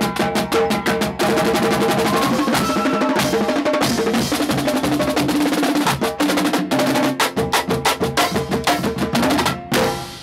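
Marching drumline playing a fast cadence in a drum-off: rapid snare strokes and rolls over pitched bass drums. It cuts off abruptly just before the end.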